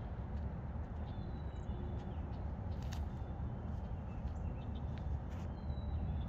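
Wild birds calling outdoors: short, high, thin whistles and chirps that come and go several times, over a steady low rumble.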